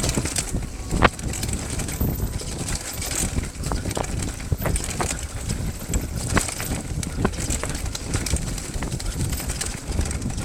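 Steady rumbling with wind on the microphone and scattered knocks and clicks, as of moving over rough ground; one sharp knock comes about a second in.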